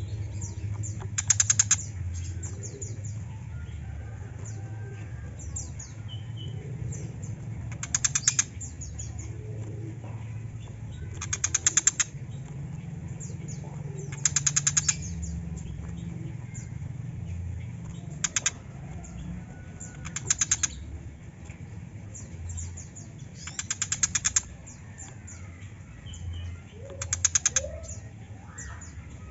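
Tiger shrike giving a series of short, harsh rattling calls, eight bursts each under a second, about one every three to four seconds, with fainter chirps between them over a low background hum.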